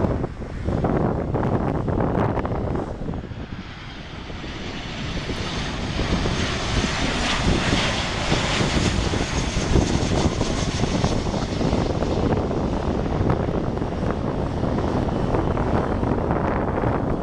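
Airliner engines passing close by, growing louder from about four seconds in and loudest around the middle, with a faint high whine that shifts in pitch.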